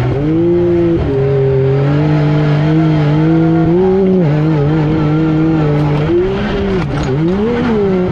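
Yamaha YXZ1000R SS's three-cylinder engine running hard under load, its pitch climbing and then stepping down sharply about one second in and again about four seconds in, as at gear shifts. Near the end the revs drop and rise twice as the throttle is lifted and reapplied.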